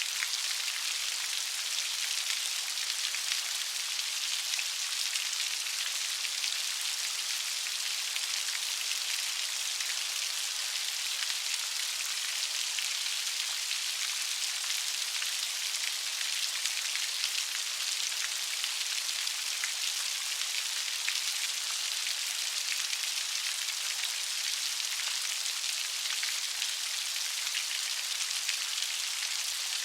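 Steady light rain: an even patter of raindrops falling on a surface, with fine scattered drop ticks and no change in intensity.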